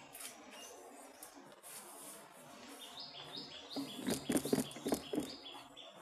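A bird chirping a quick run of short, high notes that alternate between two pitches, about halfway through. Just after, a burst of loud sharp clicks and rattles lasting about a second and a half, the loudest sound here.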